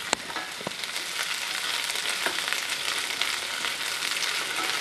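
Sliced onions sizzling in hot oil in a stainless steel pan as they are sautéed, stirred with a wooden spatula that gives a few sharp taps against the pan.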